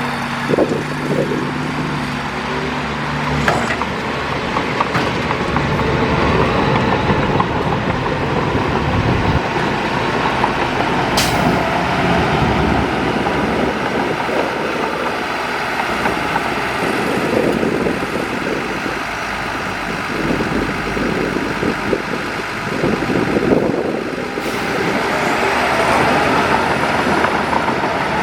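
Heavy diesel earthmoving machinery running and working: a dense, steady mechanical noise full of irregular knocks, with one sharp click about eleven seconds in.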